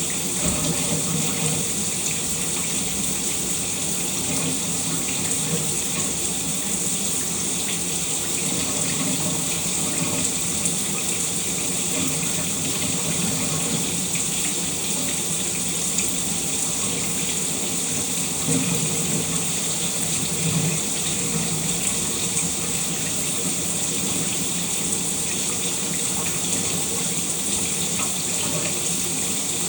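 Shower water running steadily, an even hiss of spray with a few low swells where the flow shifts.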